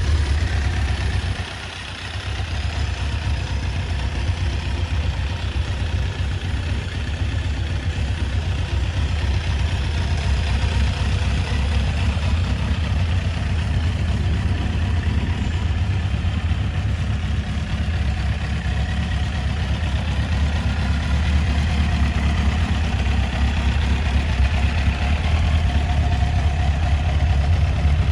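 Kawasaki GPZ900 Ninja's inline-four engine falling back from a rev about a second and a half in, then idling steadily.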